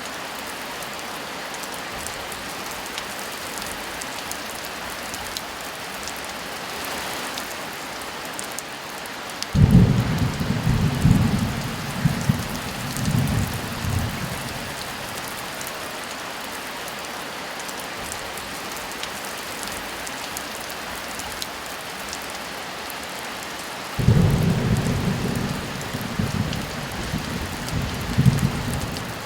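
Steady heavy rain, with two rolls of thunder: one breaks in suddenly about a third of the way through and rumbles for several seconds in a few swells, and a second breaks in suddenly near the end and rumbles on in the same way.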